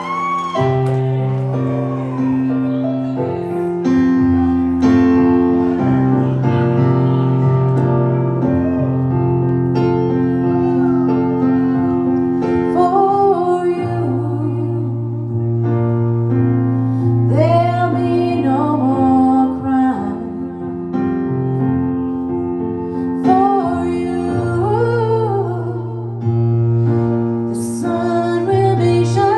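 Music: a slow song sung by a single voice over sustained piano chords.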